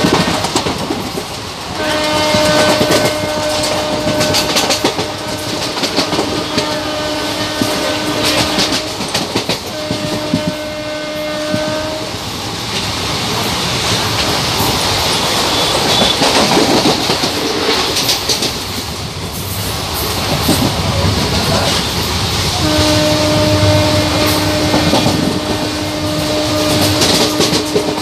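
An Indian Railways train running, heard from on board, its wheels clattering over the rail joints. A train horn sounds three long steady blasts: a long one starting about two seconds in, a short one soon after, and another long one near the end.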